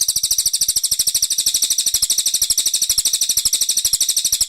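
Brown cililin songbird singing a fast, even trill of high notes repeated very rapidly without a break, cutting off abruptly at the end.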